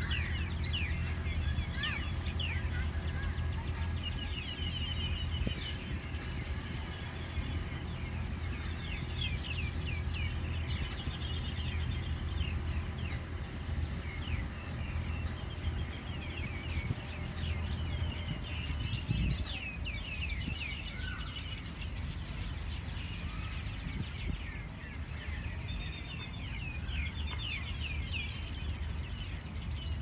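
Many small birds chirping and trilling in quick, overlapping calls throughout, over a steady low background rumble.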